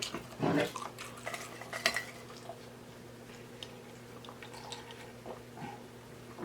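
Light clicks and taps of seafood and utensils being handled on a plate while eating, busiest in the first two seconds and sparse after, over a steady low hum.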